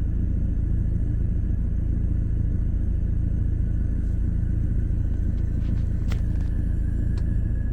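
Steady low rumble in the cabin of a Mercedes-Benz W212 E250 CDI, with a few faint clicks about six seconds in. Any hiss from behind the dash is not clearly heard above the rumble.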